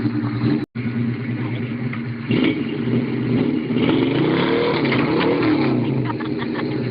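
Vehicle engine running under load, with revs rising and falling between about four and five and a half seconds in. The sound drops out completely for an instant under a second in.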